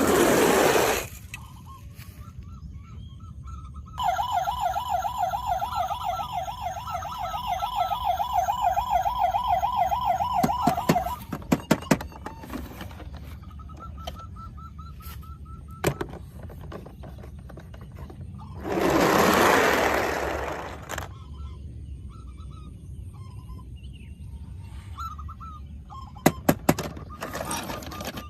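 Toy vehicle's electronic siren warbling fast for about seven seconds, starting about four seconds in. A second-long rushing noise comes at the start and again about two-thirds through, with scattered clicks between.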